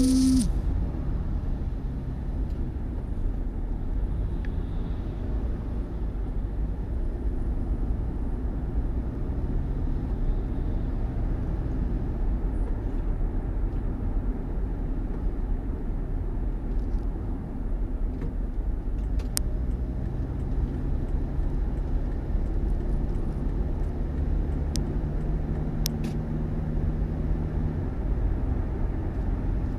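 Steady low rumble of a motor vehicle running, with a faint engine hum. A short loud burst comes at the very start, and a few faint clicks are heard in the second half.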